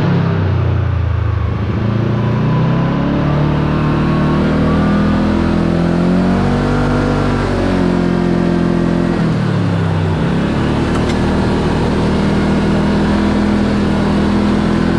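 Kawasaki KRX 4 side-by-side's parallel-twin engine running under way, its pitch climbing over the first several seconds, easing back down, then rising again about ten seconds in as the machine speeds up and slows.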